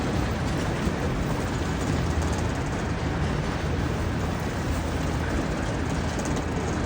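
Steady rumble and hiss of a train running, the low rumble strongest and even throughout.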